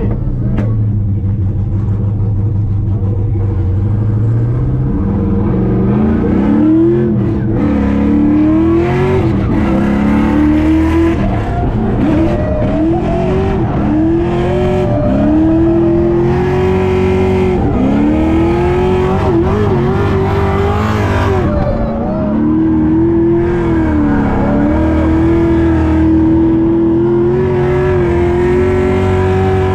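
Drift car's engine heard from inside the cabin on a drift run: it runs low and steady for a few seconds, then revs up and drops back again and again, about once a second, and holds at high revs near the end.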